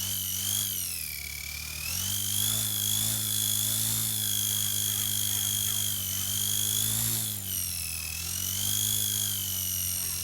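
XK K110S mini RC helicopter running on test after its brushless tail-motor upgrade, its electric motors giving a steady high whine. Twice the pitch sags and climbs back, about a second in and again near the end, as the throttle or load changes.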